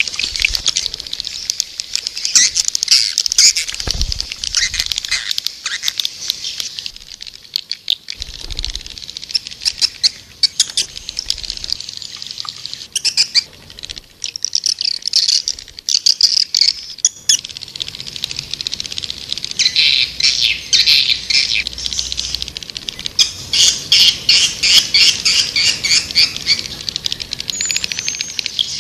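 Swiftlet lure call (suara walet panggil): many swiftlets twittering, with dense high chirps and rapid trains of evenly repeated chirps in the second half.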